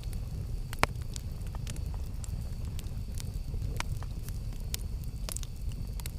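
Campfire burning: a steady low rumble under scattered sharp crackles and pops of burning wood, the loudest pop a little under a second in.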